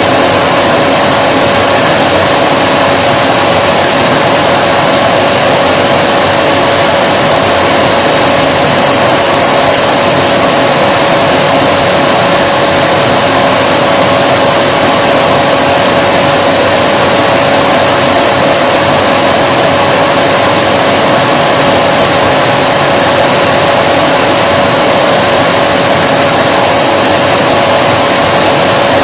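Vacuum cleaner running steadily: a constant rush of air with a steady mid-pitched motor hum, no change in speed.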